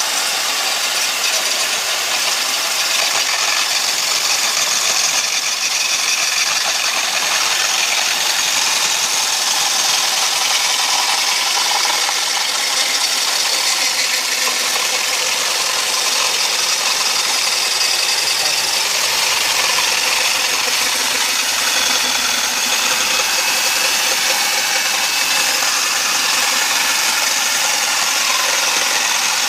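A handheld electric drill runs steadily without a break, driving a wood-cutting circular saw blade mounted in its chuck, with a rattling whir.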